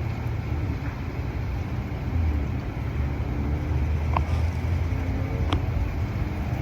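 Street background on a windy night: a steady low rumble of wind and passing traffic, growing a little about two seconds in, with a couple of faint clicks near the end.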